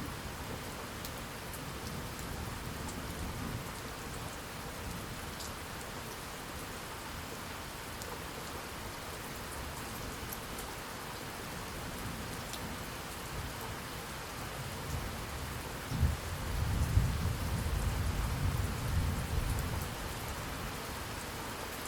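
Steady rain falling, with a low rumble of distant thunder early on and a louder clap of thunder about three quarters of the way through that rumbles for a few seconds.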